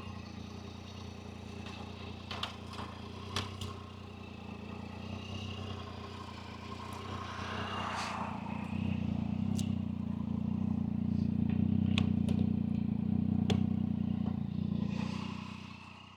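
A vehicle engine running steadily, growing louder about halfway through and then fading out at the very end, with a few light clicks over it.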